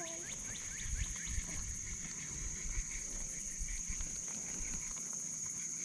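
Frogs calling in a chorus of many short, rapid clicks, over a steady high-pitched hum.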